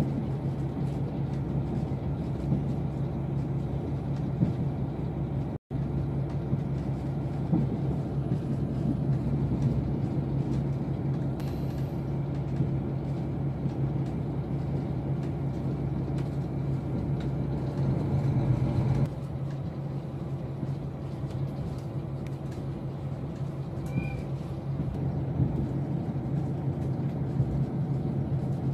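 Steady running noise heard inside a diesel train's cabin: a low engine hum over the rumble of the wheels on the rails. The sound cuts out for an instant about five and a half seconds in and eases slightly a little after two-thirds of the way through.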